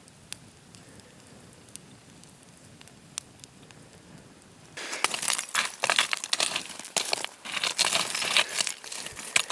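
Faint background with a few sharp isolated crackles, then about five seconds in a loud, dense crinkling and rustling starts and keeps going, like crinkly material being handled close to the microphone.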